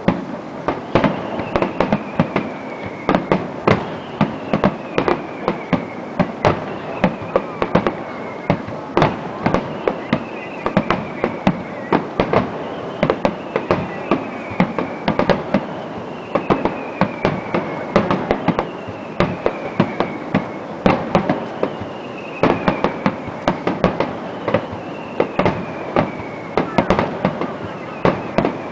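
Aerial fireworks display: shells bursting in rapid, irregular succession, many sharp bangs close together. A faint falling whistle-like tone repeats about every two seconds.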